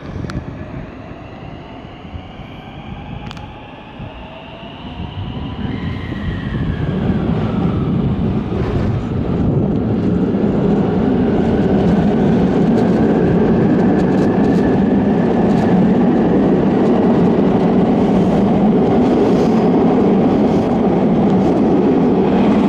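A train running at a station platform, with a whine that glides up and down in pitch in the first few seconds, then a rumble that grows louder from about five seconds in and holds steady.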